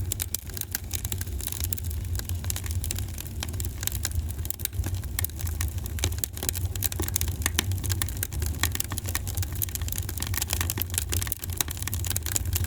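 Fireplace fire crackling: dense, irregular pops and snaps over a steady low rumble.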